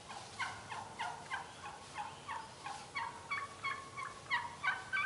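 Wild turkeys calling: a steady series of short, downward-sliding yelping notes, about three a second, the last few louder.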